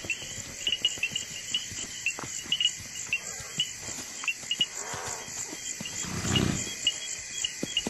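Crickets chirping in a steady night chorus, with scattered soft thuds and rustles and a short animal call about five seconds in.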